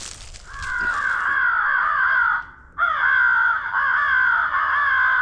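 Crow-like cawing: three long, raspy, wavering calls of two to three seconds each, separated by short breaks.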